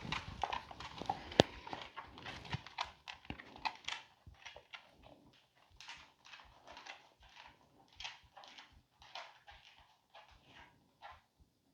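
Pet dog, a German wire-haired pointer, moving about close by: irregular short scuffles and soft noises with a few sharp clicks, busier in the first few seconds and sparser after.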